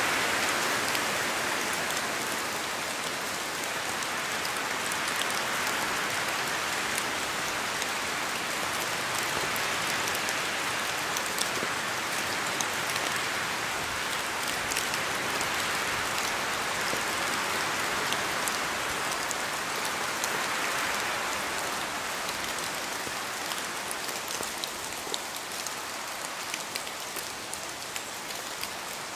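Steady rain falling, a dense hiss dotted with sharp individual drop ticks, swelling and easing slowly in intensity and turning a little lighter near the end.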